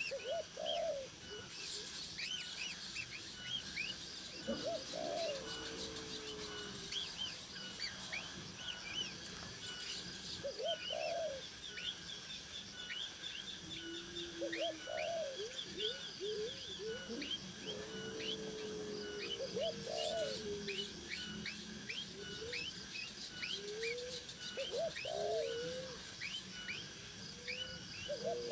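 Birds calling: a low cooing call repeated every few seconds, with many short high chirps throughout.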